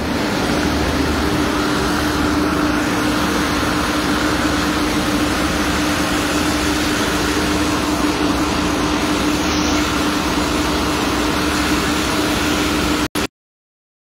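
Heavy rain pouring down onto a flooded lane, a steady even hiss, with a steady hum underneath. The sound cuts off suddenly about a second before the end.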